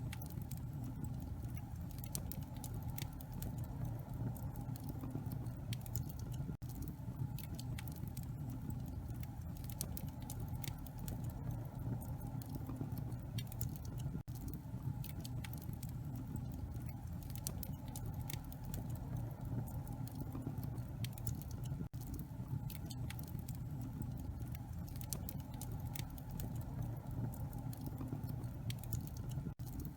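Wood fire burning in a fireplace, crackling with many small, rapid pops over a low steady rumble.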